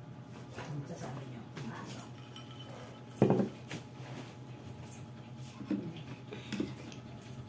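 Close-up eating sounds from someone drinking and eating a bowl of lomi: swallowing, chewing and small spoon-on-bowl clinks, with one sharp knock about three seconds in as a glass is set down on the table. A steady low hum runs underneath.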